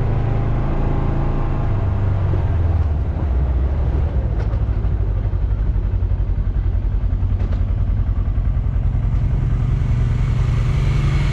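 Polaris Xpedition side-by-side's engine running steadily under way, a continuous low drone with an even pulsing beat.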